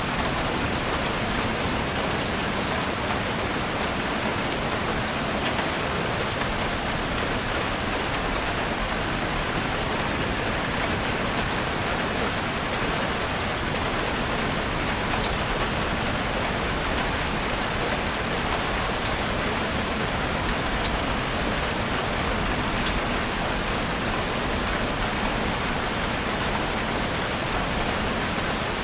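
Heavy rain falling steadily on a chalet roof: a dense, even hiss with many small scattered drop ticks.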